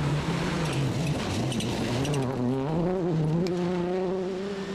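Rally car engine heard from inside the car, its revs dipping and then climbing back up about two seconds in before holding steady.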